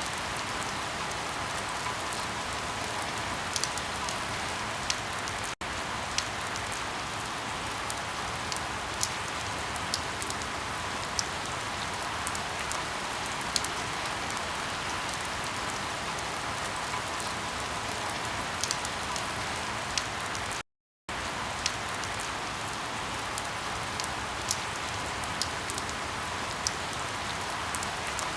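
Steady rain hiss with scattered sharp crackles of burning firewood. The sound drops out briefly to silence about two-thirds of the way through.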